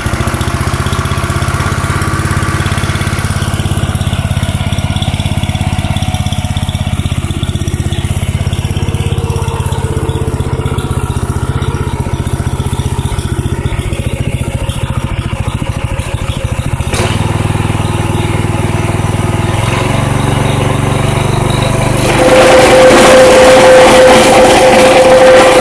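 Small engine of a Robin plate compactor running at a steady idle. About four-fifths of the way through it is throttled up and runs louder, with a strong steady hum.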